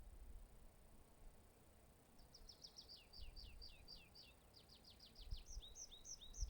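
A small songbird singing faintly from about two seconds in: a quick, even run of high notes, each sweeping downward, about five or six a second. There are a few brief low rumbles underneath.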